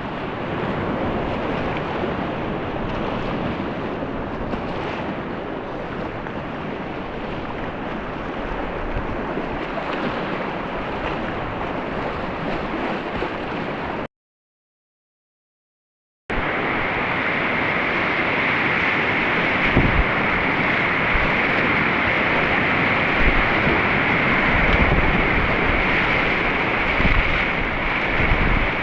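Steady rush of whitewater in a mountain river's rapids. The sound cuts out completely for about two seconds midway, then returns with a brighter hiss.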